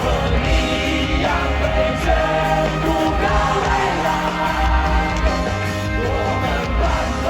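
Rock band playing live: full-band music mid-song.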